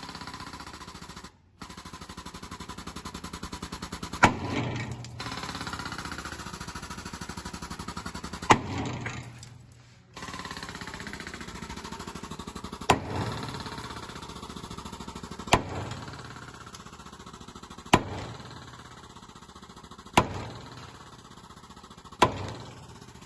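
Seven sharp sledgehammer blows on a seized truck spring bolt, spaced about two to four seconds apart, struck while the hydraulic pump keeps the 45-ton press cylinder under load with a fast steady pulsing. The pump pauses twice. The combined pressure and hammer shock are used to break the seized bolt loose.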